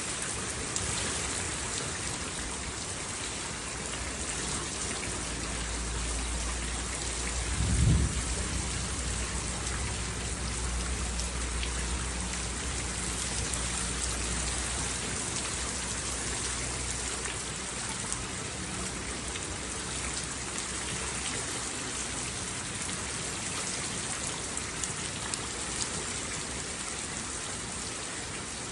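Steady rain pattering, with a clap of thunder about eight seconds in that rolls on low for several more seconds before fading back under the rain.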